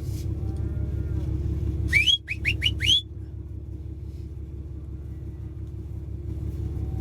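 A person whistling to call cattle: four short, quick whistles that each sweep upward, about two seconds in, over the steady low running of a vehicle engine.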